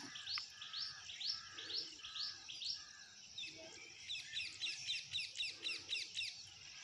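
Small birds calling: a high chirp repeated about twice a second, then a quicker run of short falling notes about four seconds in.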